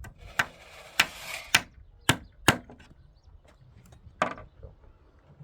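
About six sharp, irregularly spaced blows of a tool striking wood, with a short rasping noise after the second blow.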